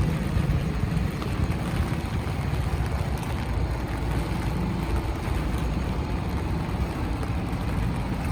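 Rainy city street ambience: a steady low rumble of traffic under an even hiss of rain.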